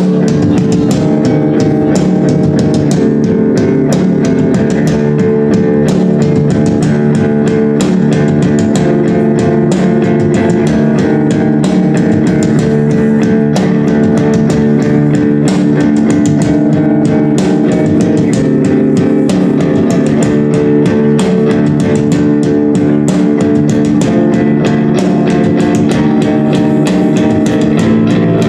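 Loud live rock band playing without a break: guitar and bass guitar over a steadily hit drum kit.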